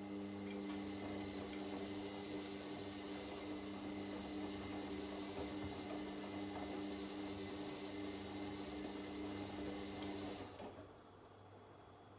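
Washing machine running during a wash cycle: a steady motor hum with a rushing noise over it, which stops about ten and a half seconds in.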